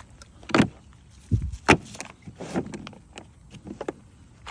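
A few separate knocks and thumps of tool kits in their cases being handled and set down, one heavier thud about a second and a half in.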